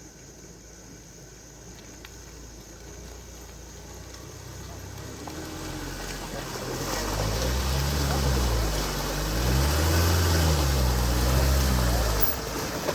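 A motor vehicle's engine grows steadily louder as it comes closer, its pitch rising and falling as it is revved. It drops away suddenly near the end.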